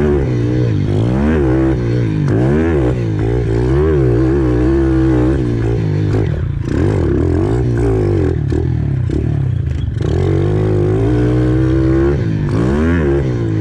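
Pit bike's single-cylinder engine being ridden hard around a dirt track, revving up and falling back over and over as the rider accelerates, shifts and backs off for jumps and corners.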